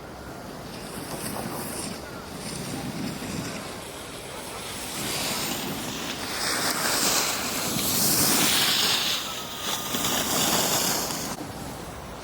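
Wind rushing over the microphone and edges scraping across packed snow while riding down a ski slope. The noise swells louder in waves through the second half.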